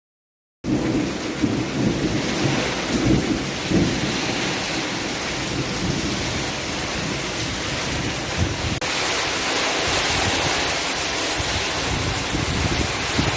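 Heavy rain pouring down in a thunderstorm, a loud steady hiss with deep rumbles in the first few seconds. The sound breaks off for an instant about two-thirds of the way through, then the downpour carries on.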